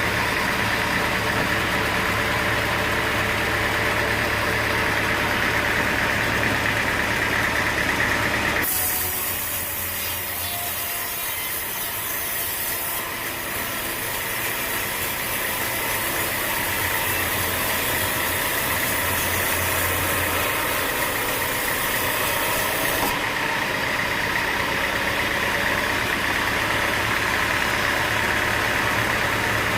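A sawmill's engine running steadily. About nine seconds in the sound shifts: the low hum drops back and a high hiss comes in, lasting until a little past twenty seconds before the steady running returns.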